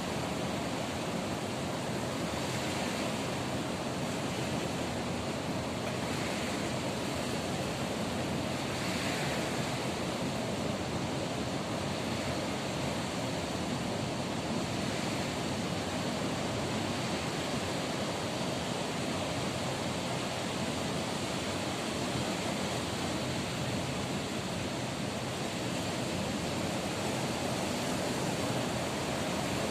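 Ocean waves breaking on a beach: a steady wash of surf with gentle swells every few seconds.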